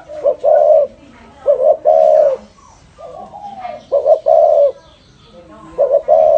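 Spotted dove (cu gáy) cooing in its 'thổ rền' style. It gives four phrases, each a short note followed by a longer drawn-out coo, about every two seconds, with fainter gliding calls between them.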